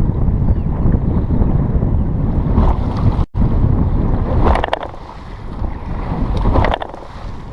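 Heavy wind buffeting the microphone as a bass boat runs across choppy water, with splashes of water every couple of seconds. The sound cuts out for an instant about three seconds in.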